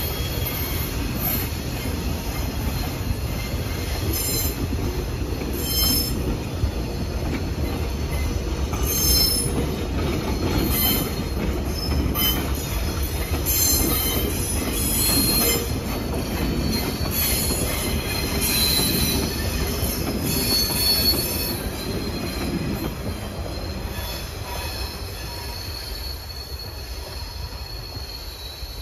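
Passenger train led by two diesel locomotives rolling past: a steady low rumble with steel wheels squealing on and off. The rumble fades over the last few seconds.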